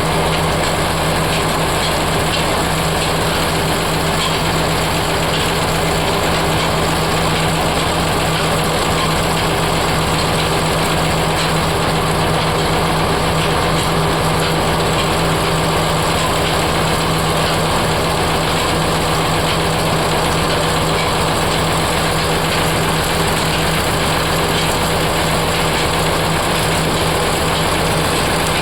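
Heavy machinery running steadily, with a constant low hum under a dense, even clatter.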